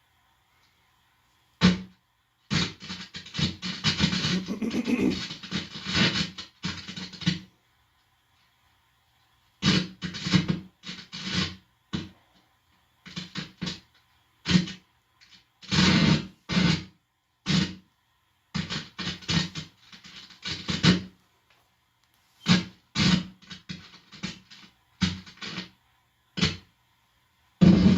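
Guitar amplifier blaring hum and crackle in loud, irregular bursts with short silent gaps, as the bare tip of a guitar cable plugged into it is touched against a surface. The owner takes the noise for signals from directed-energy attacks.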